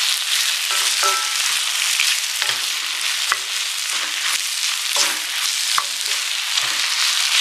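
Chicken, shrimp, leek and bacon sizzling steadily in butter and flour in a cast-iron skillet, the roux stage of a gratin, while a wooden spatula stirs and scrapes, with a short knock of the spatula against the pan every second or so.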